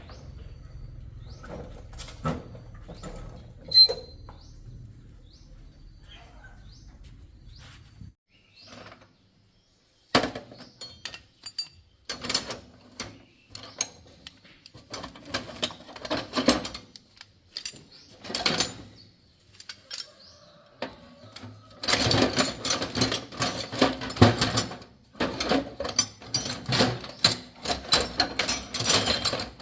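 Short metallic clicks and knocks of hand tools working on a motorcycle, scattered at first and then a dense, busy clatter for the last several seconds.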